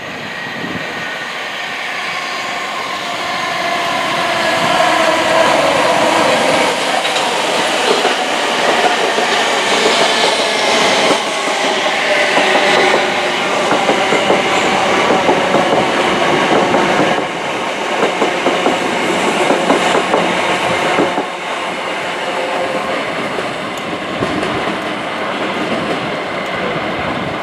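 South Western Railway Class 159 diesel multiple unit passing through at speed, its engine note and wheel-on-rail noise building over the first few seconds and staying loud, then easing slightly after about twenty seconds.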